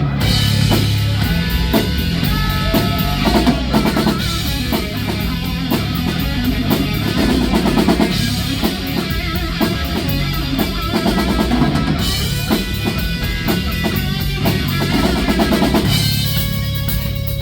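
Live rock band playing an instrumental break: drum kit with bass drum driving a steady beat under electric guitars, with no vocals.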